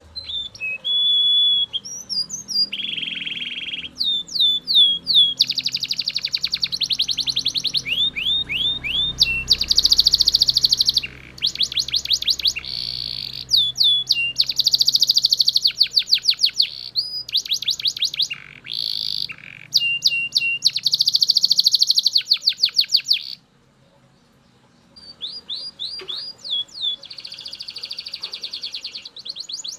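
Belgian canary singing loudly in long phrases of rapid trills and fast-repeated down-slurred notes. It stops for about a second and a half near the end, then starts again.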